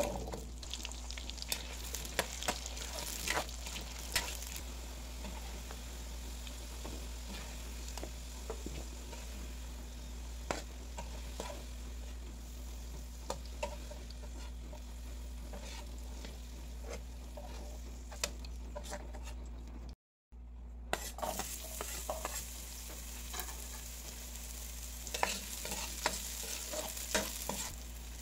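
Potato and carrot chunks frying in hot oil in a wok: a steady sizzle with sharp clinks and scrapes of a metal ladle stirring them. About two-thirds through the sound cuts out briefly, then sliced onion sizzles in the oil with more clinks of the ladle.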